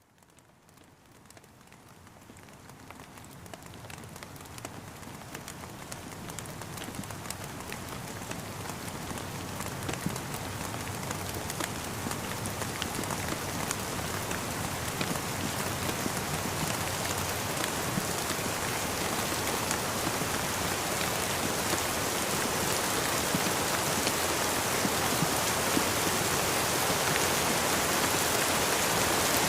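Steady rain falling, with scattered drops tapping, fading in gradually from near silence over the first half and then holding level.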